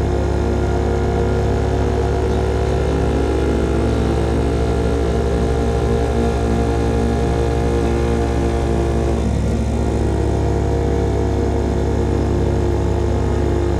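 Single-cylinder engine of a CFMOTO Papio SS motorcycle running steadily through a KO Lightning slip-on exhaust under riding load. About nine seconds in, the note dips briefly and then picks up again.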